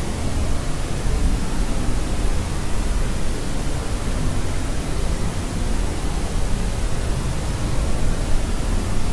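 Steady pink-type white noise for sleep, a constant hiss with most of its weight in the low rumble and no changes.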